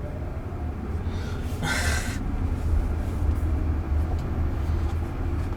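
Steady low road rumble inside the cabin of a moving Waymo self-driving car, with a brief hiss-like noise about two seconds in.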